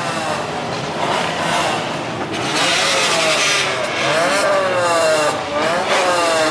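Car engines revving hard, their pitch climbing and falling in several glides, with a stretch of harsh rasping noise a little past two seconds in.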